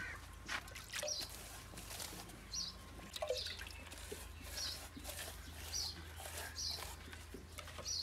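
Faint, high bird chirps repeating about once a second, over a low steady hum.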